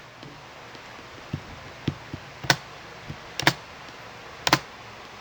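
A few scattered keystrokes on a computer keyboard, sharp clicks about once a second, some louder than others.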